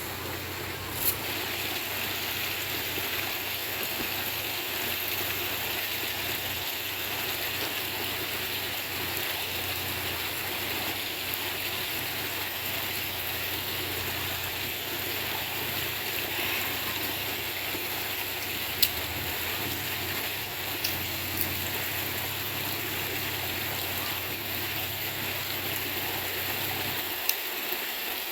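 River water running steadily, with a few sharp single pops now and then.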